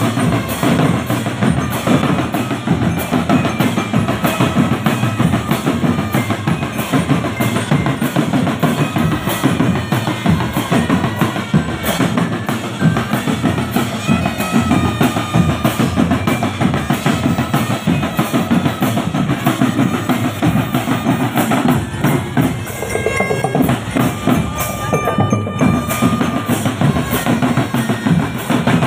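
Marching drum band playing continuously: snare and bass drums beating a steady, driving rhythm, with held melody notes sounding above the drums.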